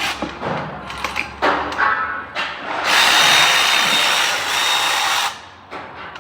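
A few clicks and knocks, then a power tool runs steadily for about two and a half seconds with a thin high whine and stops abruptly. It is likely breaking loose tight 12 mm bracket bolts on an ABS pump unit.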